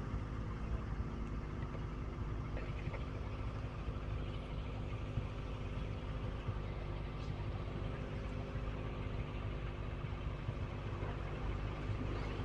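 Kawasaki ZX25R's 249 cc inline-four engine idling steadily at an even pitch.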